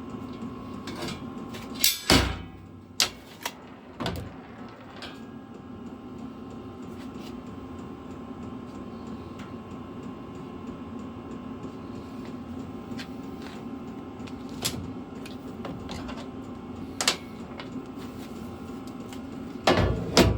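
A few sharp knocks and taps of tools on sheet metal, a cluster of them early, two single ones later and a louder pair near the end, over a steady low hum.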